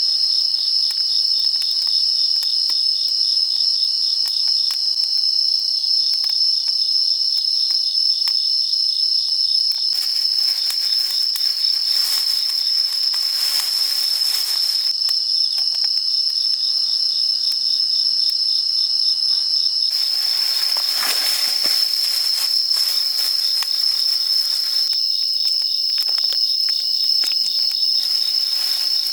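Insects chirping in a steady, high-pitched chorus. There are two stretches of rustling noise, about ten and twenty seconds in.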